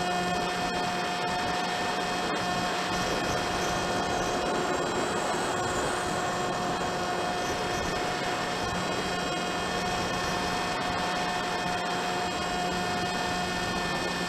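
Brushless electric motor and propeller of a HobbyKing Drifter model plane running at a steady throttle, a constant whine with a buzz of noise under it.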